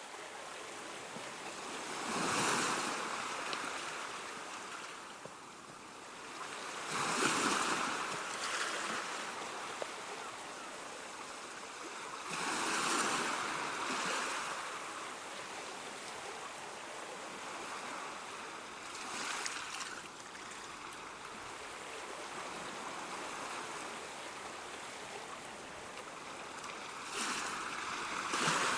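Ocean surf: a steady wash of water with waves breaking about every five or six seconds, each swelling up and then fading back.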